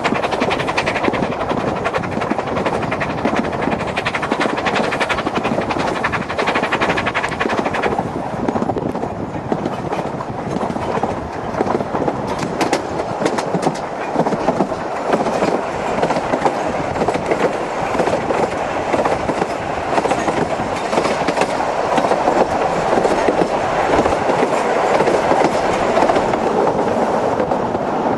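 Isle of Man Steam Railway narrow-gauge steam train running along the line, its carriage wheels clattering steadily over the rail joints.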